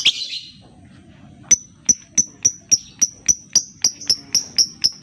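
Lovebird calling: one loud, harsh shriek, then about a second later a run of sharp, high chirps repeated about four times a second, quickening slightly.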